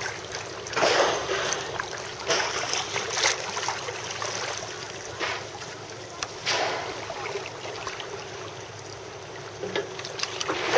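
Water sloshing and swishing around a kayak, in several separate surges over a steady hiss of sea and wind.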